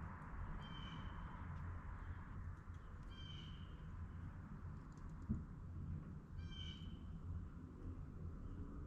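A bird calling three times, about three seconds apart, each a short call of about half a second.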